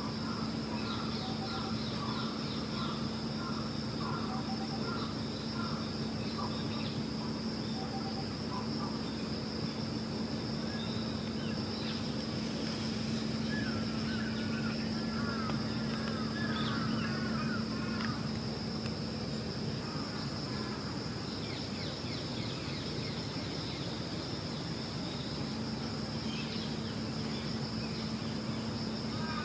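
Outdoor ambience: small birds calling in quick series of repeated chirps near the start, in the middle and again at the end, over a steady high-pitched drone and a steady low hum.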